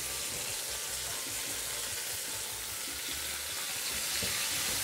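Chicken feet sizzling steadily as they fry in hot oil with browned sugar in a large aluminium pot, stirred with a metal spoon.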